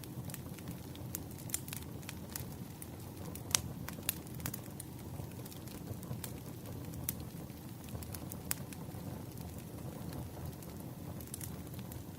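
Wood fire crackling: irregular sharp pops and snaps over a steady low rumble, with a few louder pops.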